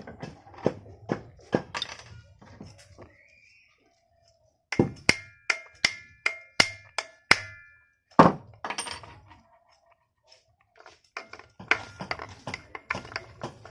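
Hammer strikes on metal parts in groups: a run of taps at about two a second, a pause, then several sharper strikes that ring briefly, the loudest blow about eight seconds in, and more scattered taps near the end.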